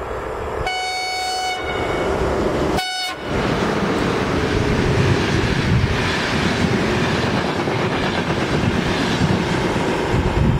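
A passenger train sounds its horn twice: a held blast of about a second, then a short one. Its coaches then run past at speed with a steady rush and rumble of wheels on the rails.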